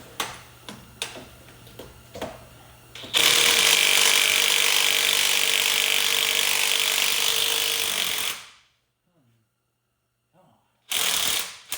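Impact wrench hammering on a rusted bolt for about five seconds, then a short second burst near the end, after a few light clicks of hand tools.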